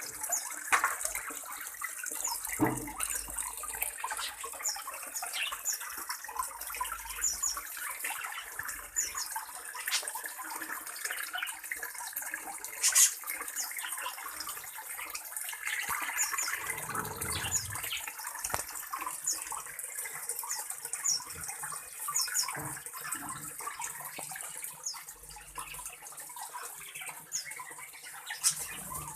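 Steady running-water hiss, with short high bird chirps repeating throughout and a few sharp clicks.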